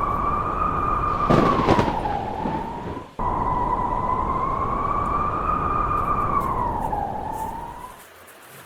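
Blizzard wind howling: a loud whistling tone that slowly wavers up and down in pitch over a rushing noise, with a stronger gust about a second in. It breaks off for an instant about three seconds in and dies away near the end.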